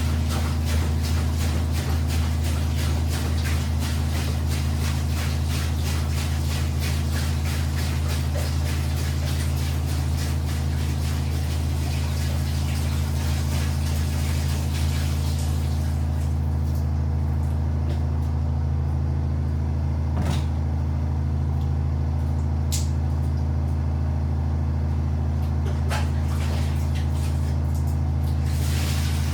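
Washing machine running: a steady electric motor hum with a rapid churning, sloshing noise that fades out about halfway through, leaving the hum and a few sharp clicks.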